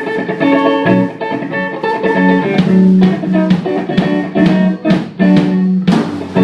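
Loud band music: guitar playing over a drum beat.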